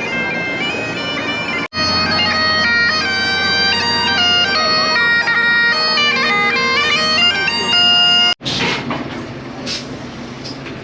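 Bagpipes playing a tune over their steady drone, starting abruptly about two seconds in and cutting off about eight seconds in. A noisy rumble with scattered clatter follows.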